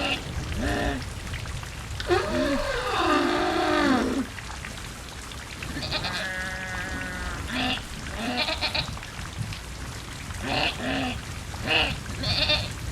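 Farm animals bleating over and over, with a long wavering call about two seconds in, a steadier held call near the middle, and a run of short calls toward the end, over a steady rain-like hiss.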